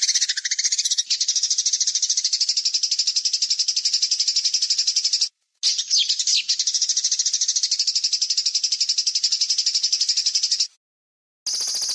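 Songbird masteran recording of a harsh, rapid rattling trill ('tembakan kasar'): high-pitched notes repeated many times a second in a steady run. It cuts out abruptly twice, and near the end a different high, pulsing trill takes over.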